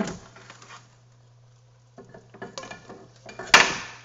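Cooking utensils clattering and scraping against a pot in two short spells, the second ending in a sharp metal clank about three and a half seconds in.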